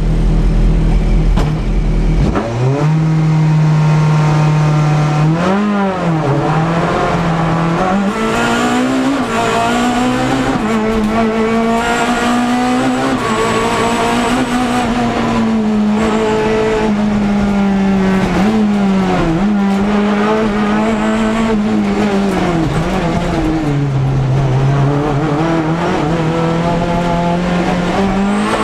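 Ford Focus ST race car engine heard from inside the cabin: running steady at the start line, then launching about two seconds in and accelerating hard through the gears, the revs climbing and dropping at each gear change.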